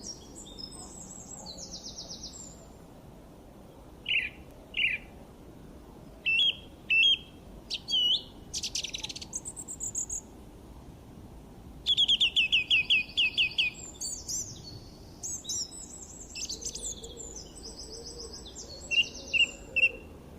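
Songbirds singing and chirping: a varied run of high chirps, whistled phrases and quick trills, including a loud fast series of about eight notes near the middle.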